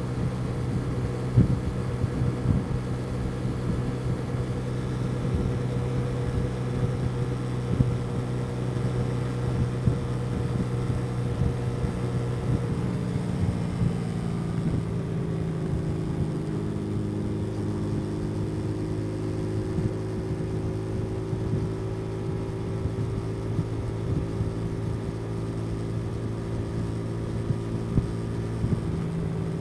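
Motorcycle engine running steadily under way, heard from the rider's position. About halfway through, the engine note shifts and settles at a new steady pitch.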